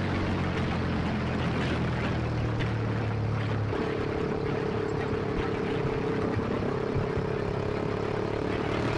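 Single-cylinder engine of a Kawasaki Ninja 250SL running through an SC Project aftermarket exhaust, a steady exhaust note. About four seconds in, the engine note changes to a different steady pitch.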